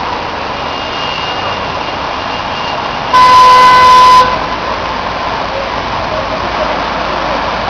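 Vehicle horn sounded once for about a second, loud, a little before the middle, over a steady hiss of street and traffic noise.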